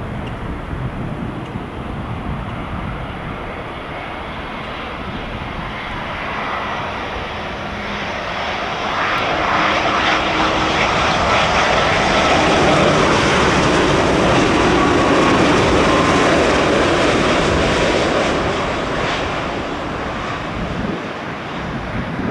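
Boeing 787 Dreamliner jet engines passing on its landing approach: a steady jet rumble and whine that swells over several seconds, is loudest about halfway through, then fades away.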